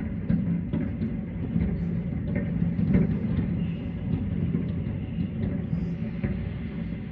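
Aerial fireworks going off in quick succession: a continuous deep rumble of overlapping bangs, with sharp pops and cracks every fraction of a second.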